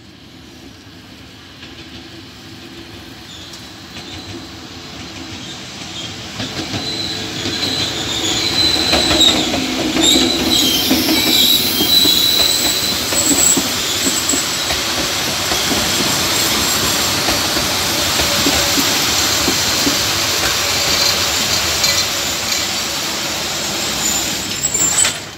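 Diesel-hauled passenger train pulling into a station, growing louder as it approaches, then its coaches rolling past slowly with a steady rumble of wheels on rail. A high-pitched squeal from the wheels and brakes runs from a few seconds in until about halfway, as the train slows to stop.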